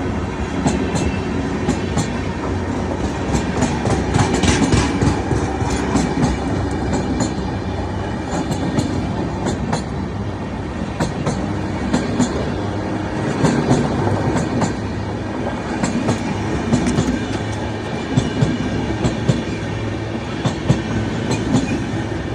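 Train running on the track: a steady loud rumble with irregular sharp wheel clicks and clatter over rail joints.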